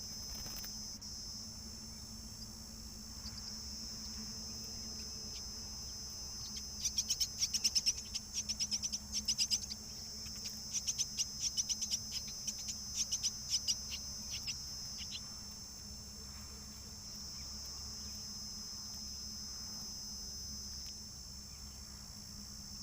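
Myna chick begging with rapid trains of sharp, high chirps from about seven to fifteen seconds in, over a steady high-pitched insect drone.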